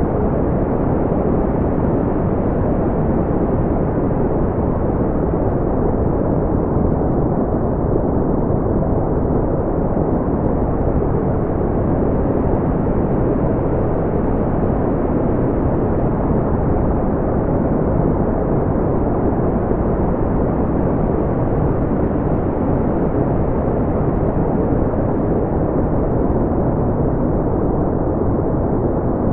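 Steady, deep brown noise, a smooth low rumble with nothing above the upper mids and no changes in level.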